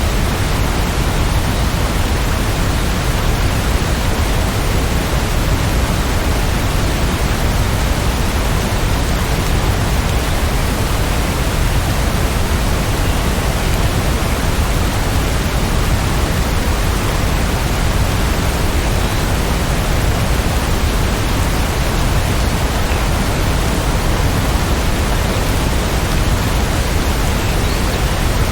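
Rain falling steadily: an even, unbroken hiss with a deep low rumble, and no single drops standing out.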